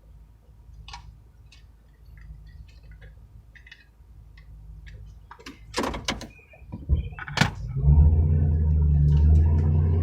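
Small clicks and two or three loud door thunks about six to seven and a half seconds in, then a vehicle engine starts and runs with a steady low drone.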